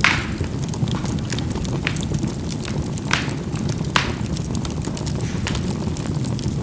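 Charcoal burning in a fireplace: a steady low rumble of the fire, with sharp pops and crackles as the charcoal bursts. The loudest pop comes right at the start, and others come about two, three and four seconds in.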